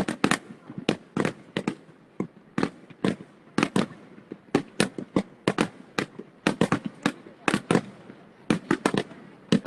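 Fireworks going off in a fast, irregular string of sharp bangs, several a second and often in quick clusters of two or three.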